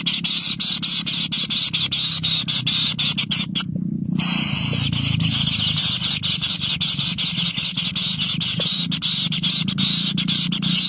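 Nestling birds begging, a continuous high-pitched squealing chorus that cuts out briefly about three and a half seconds in.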